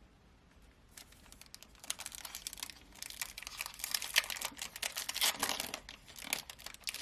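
Plastic trading-card pack wrapper being torn open and crinkled: a dense, rapid crackle starting about a second in.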